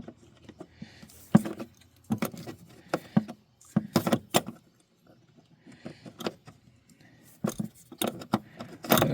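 Irregular metallic clinks, clicks and knocks of hand tools and small metal parts being handled while electrical connectors are worked loose under a van's dashboard.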